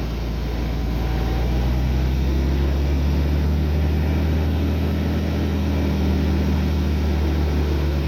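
Heavy diesel engine of earthmoving equipment running steadily at an even pitch, with a deep, constant hum.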